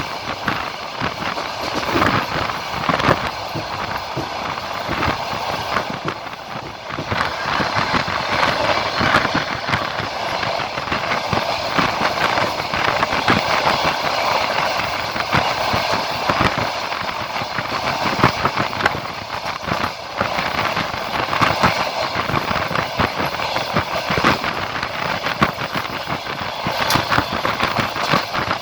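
Passenger train wheels running on the rails, heard from aboard the train: a steady rolling rumble with frequent irregular clacks of the wheels over rail joints.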